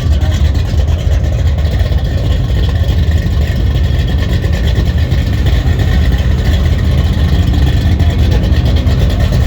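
A vehicle engine running steadily, a low rumble with no change in pitch.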